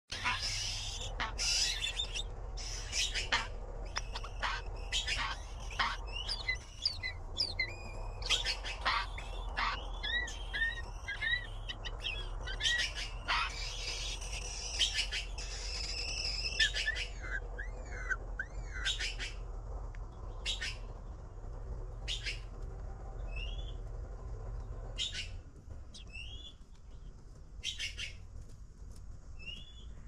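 Red-billed blue magpie nestlings begging at the nest while being fed: many short noisy calls mixed with high chirps, thinning out over the last several seconds. A low steady hum underneath stops about 25 seconds in.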